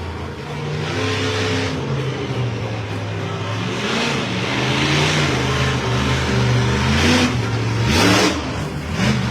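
Monster truck engine idling and revving, its pitch rising and falling repeatedly, with several short rushes of noise over it.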